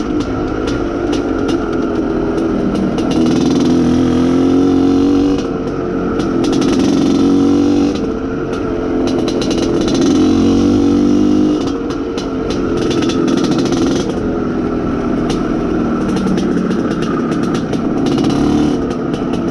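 IZh Planeta Sport's single-cylinder two-stroke engine under way while it is being run in, the throttle opened and eased several times so the engine note rises and falls in loud swells. Short clicks and knocks come through over it, typical of riding over a rough trail.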